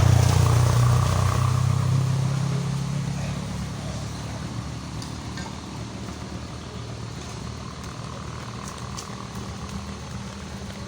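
A motor vehicle's engine, loudest at the start and fading over the first few seconds as it draws away, leaving a quieter steady low engine hum.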